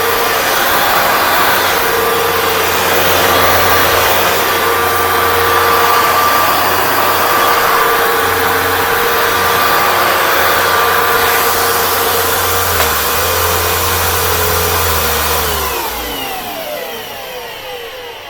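Hoover Dual Power Max Pro carpet cleaner running steadily with a whine over its motor and suction noise. It is switched off about 16 seconds in, and its pitch falls as the motor spins down.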